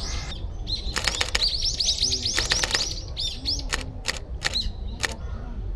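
Songbird chirping in a rapid run of short arched high notes, densest in the first half. Sharp clicks come through it, singly and in quick runs: the shutter of a Fujifilm X-H1 camera.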